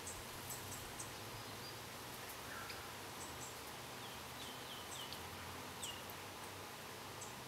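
Small birds chirping over a steady outdoor hiss: scattered short, very high chirps, and a run of quick falling notes about halfway through.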